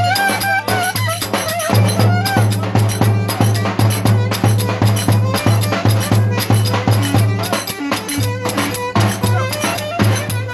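Turkish folk dance music played by a band: a fast, even beat over a held low note, with a wavering melody line in the first couple of seconds.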